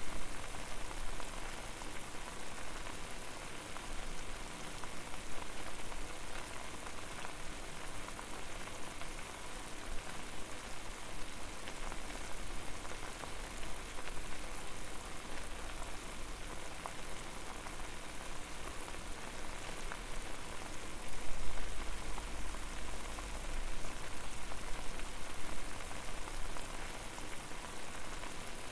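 Water at a steady boil: a dense, even patter of bubbles popping, with a low rumble underneath that swells briefly about three-quarters of the way through.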